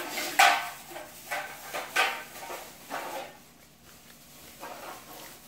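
A person biting into a piece of fried food and chewing it, with several short chewing sounds over the first three seconds, the loudest near the start, then quieter chewing.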